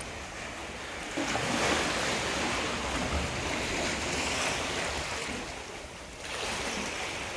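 Ocean surf washing on the shore: a broad rush that swells about a second in, eases just before the end, then rises again as the next wave comes in.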